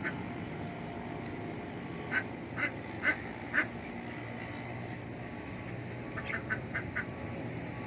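Domestic ducks quacking in short runs: four quacks about two seconds in, then a quicker run of about six near the end, over a steady low background noise.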